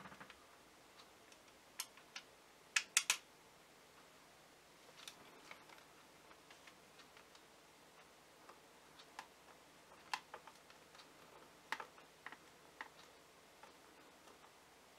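Scattered light clicks and taps of hard plastic and metal as a replacement battery pack is handled on a Dyson V6 cordless vacuum and a Phillips screwdriver starts its retaining screw, turning it in for a first, loose tightening. A cluster of three sharp clicks comes about three seconds in, and single louder clicks come near ten and twelve seconds.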